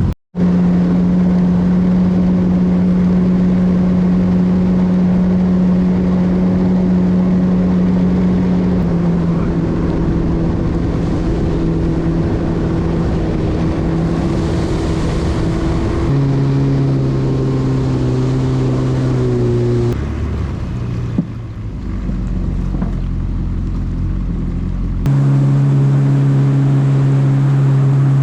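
Personal watercraft (Yamaha WaveRunner) engine running at steady cruising speed, with water and wind noise over the hull. Its pitch changes abruptly a few times through the stretch.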